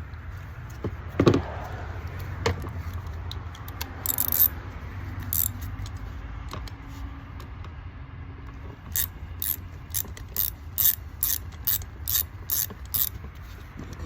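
Hand ratchet wrench clicking in a steady rhythm of about two strokes a second, loosening the through-bolts of a starter motor. Before it come a few scattered knocks and clicks, the loudest a knock about a second in.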